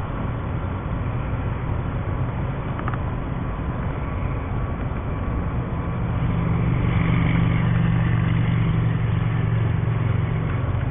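An engine running steadily with a low hum, growing louder from about halfway through, over a constant rushing noise.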